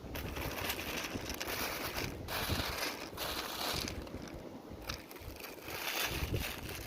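Irregular crunching and rustling close to the microphone, with wind noise.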